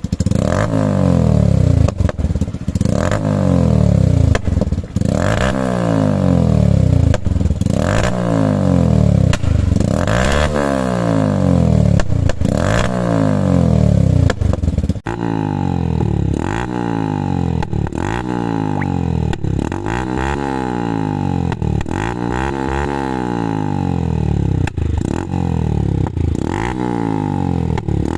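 Suzuki Gixxer 150's single-cylinder engine revved again and again, each blip rising and falling in pitch, with sharp pops from the exhaust. About halfway through the sound cuts to another take, where the blips come quicker, roughly one a second.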